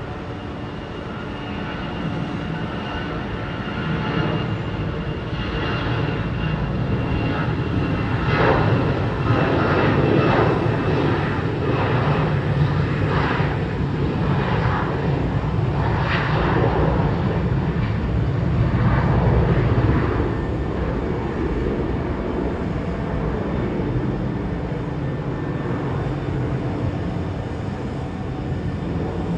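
Twin-engine Airbus A321 jet passing, its engine noise swelling to a peak in the middle and then easing off, with a steady whine high above the rumble.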